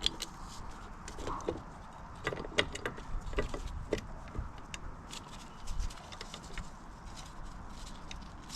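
Scattered clicks, taps and knocks of metal engine parts being handled and set down during an engine teardown, busiest in the middle.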